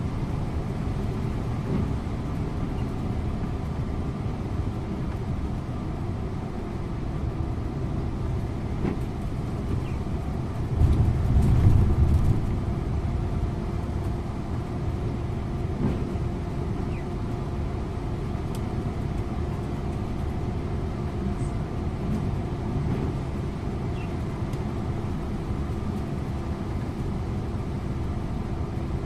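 Scania InterLink coach driving on the road, heard from the driver's seat: a steady engine and tyre rumble with a steady hum over it, swelling louder and lower for about two seconds near the middle.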